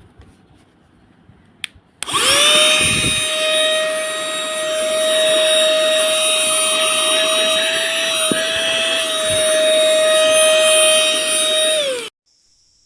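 Small cordless vacuum cleaner and air duster's high-speed motor switched on about two seconds in. It spins up quickly to a steady high-pitched whine with a rush of air, runs for about ten seconds, then is switched off and winds down.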